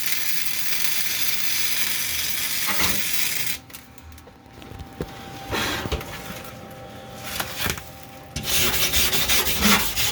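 Wire-feed welder arc crackling and hissing as weld beads are laid on car body steel, in three runs: a long one that stops about a third of the way in, a short one in the middle, and another near the end.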